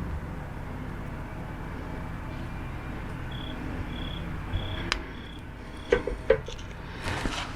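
Short, repeated high chirps at one pitch over a steady low background, then a few sharp clicks and some handling clatter near the end.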